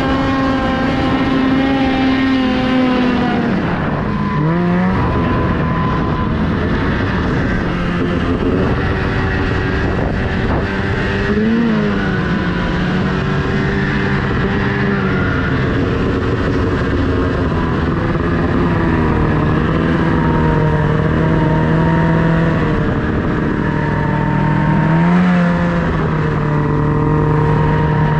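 Snowmobile engine running under way, its pitch changing with the throttle: it drops about four seconds in, then swells briefly around twelve seconds and again near the end, over a steady rush of noise.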